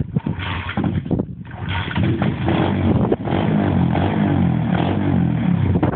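Pit bike engine running and revving: the revs climb about two seconds in, then rise and fall under the throttle.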